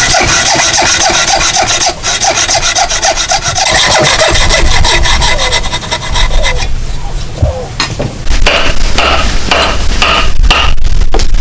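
Hand tool working wood in quick repeated scraping strokes. About eight seconds in, evenly spaced ringing taps take over, two or three a second.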